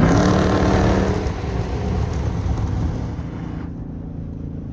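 Straight-piped Dodge Charger R/T V8 exhaust, loud at first and then easing off, with its upper frequencies dropping away about three and a half seconds in as the throttle comes off.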